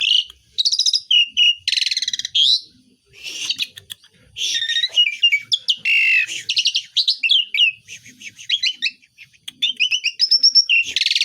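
Asian pied starling singing continuously: a rapid, varied jumble of whistles, slurred notes, harsh rasping phrases and fast clicks, with mimicked notes of other birds worked in.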